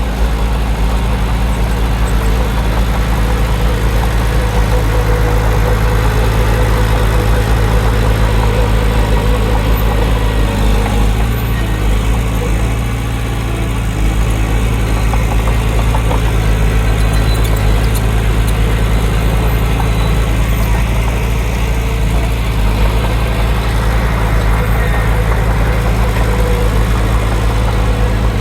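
Heavy diesel engine of earthmoving machinery running steadily under work, with a deep, even drone and a short dip in loudness about halfway through.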